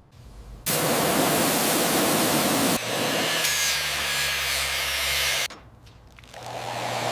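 A loud, steady hiss with a low motor hum under part of it, in stretches that start and stop abruptly.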